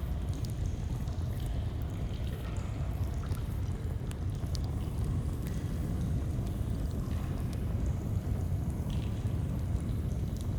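Steady rushing of a flowing stream, with scattered faint crackles and pops from a campfire.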